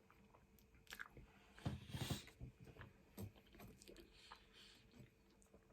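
Faint chewing and biting: a person eating baked beans on toast, with soft mouth smacks and a few short clicks, the loudest about two seconds in.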